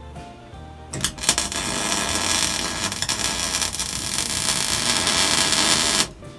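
Electric arc welding: a loud, even crackling hiss of the arc that strikes about a second in, runs for about five seconds, and cuts off suddenly.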